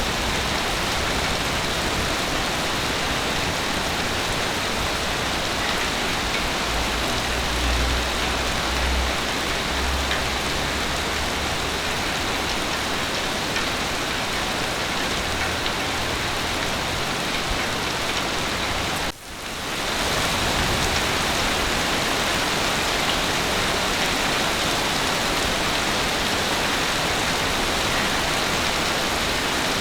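Heavy rain falling in a steady hiss. About two-thirds of the way through it drops out for a split second and quickly swells back.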